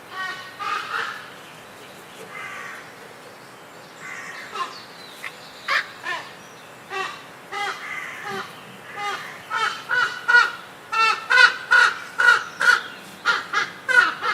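Birds calling: a string of short, repeated calls. They are sparse at first and come thick and fast, about two a second, in the last few seconds.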